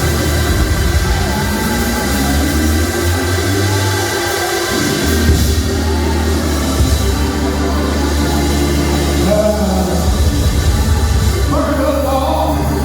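Live church music: steady held chords over a strong bass line, with a voice singing along at times.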